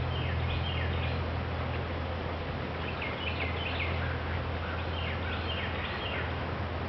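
A songbird singing short chirping phrases every couple of seconds, over a steady low hum.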